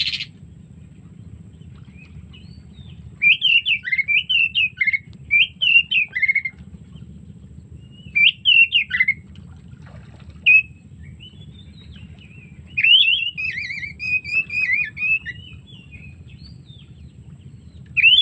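Oriental magpie-robin (kacer) singing: spells of quick, varied whistled notes that swoop up and down, separated by pauses of one to two seconds, over a steady low hum.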